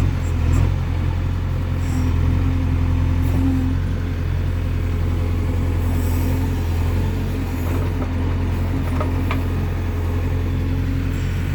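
Diesel engine of heavy machinery running steadily as a low, even drone.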